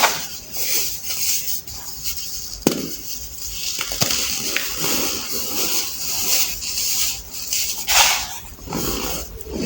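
Compacted baking soda being crushed and crumbled by hand: irregular soft crunches and crumbling rasps, with a sharp crack about three seconds in.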